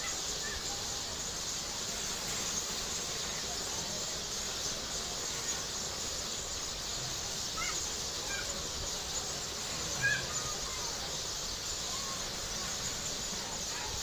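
Short, faint bird chirps, a few of them clustered around the middle, over a steady high hiss of outdoor ambience.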